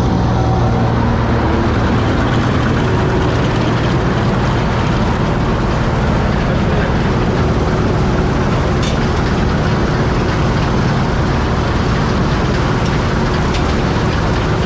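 Heavy farm machine's engine running steadily at a constant speed, a dense low rumble with a faint steady whine over it.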